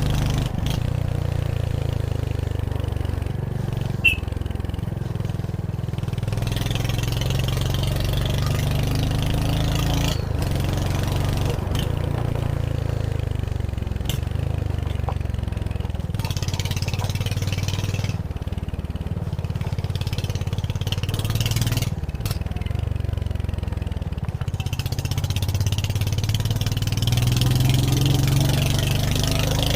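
Royal Enfield Hunter 350's single-cylinder engine running under way, its low note rising and falling a little with the throttle. A single sharp click about four seconds in.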